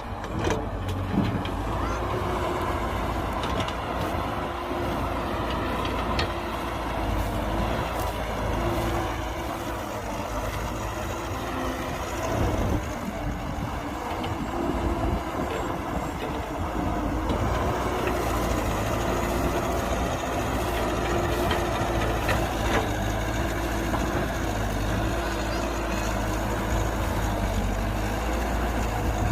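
Heavy diesel earthmoving machinery running steadily, its engine drone rising and falling a little under load, with a few short knocks.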